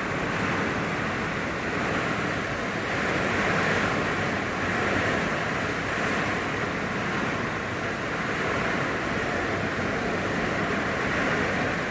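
Strong hurricane wind, a steady rushing that swells and eases every few seconds, with wind buffeting the microphone.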